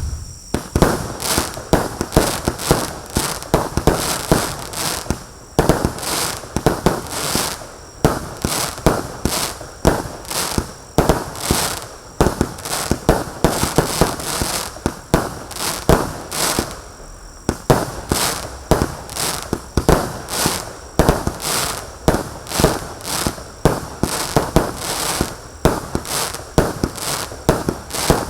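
Lesli Mighty Kreator consumer firework going off shot after shot: a long run of sharp bangs, about two or three a second, with a brief pause about two-thirds of the way through.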